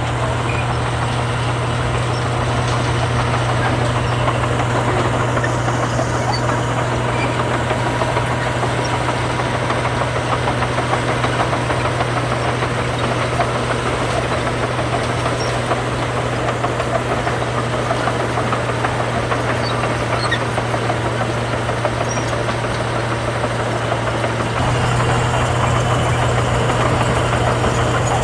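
Heavy diesel engine of earthmoving machinery running steadily with a deep hum, getting slightly louder near the end.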